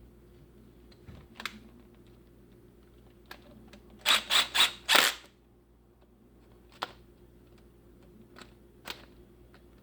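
Sharp clicks and knocks of the disassembled reciprocating saw's parts being handled, with a quick run of four loud clicks about halfway through.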